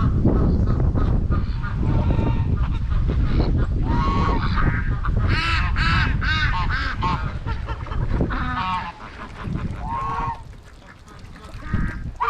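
Domestic geese honking, a run of loud repeated calls that bunch together in the middle, over low wind rumble on the microphone that drops away near the end.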